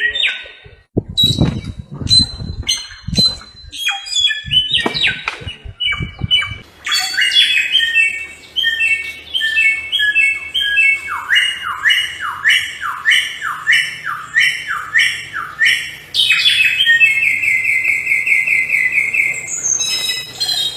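A samyong bird singing loud, clear whistled phrases: a run of repeated falling whistles, then a fast even trill near the end. A few low thumps sound in the first seconds.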